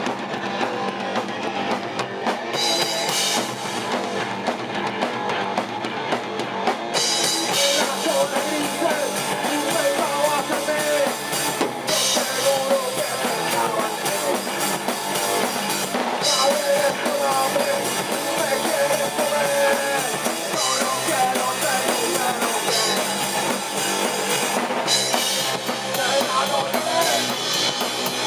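A rock band of guitar, bass guitar and drum kit playing a song, the drums driving it with recurring cymbal crashes.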